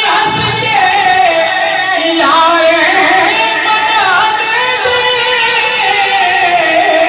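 Sufi kalam sung in qawwali style with musical accompaniment: a long, gliding melodic line without clear words, sinking slowly in pitch near the end.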